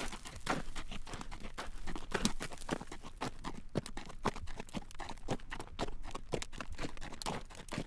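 Horse's shod hooves clip-clopping on a road at a walk while drawing a carriage, a quick, uneven run of sharp clacks.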